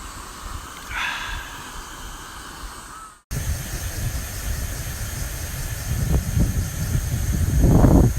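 Wind buffeting the microphone, a low rumble that builds to a loud gust near the end. A crow caws once about a second in.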